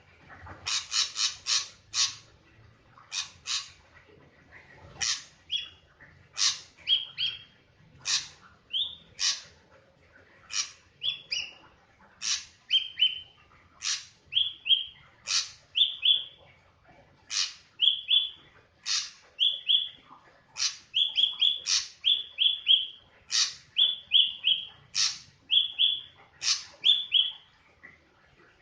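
A drongo calling over and over. Its calls are short and sharp, many ending in a brief lower whistle. They come about once a second, with a quick run of them at the start.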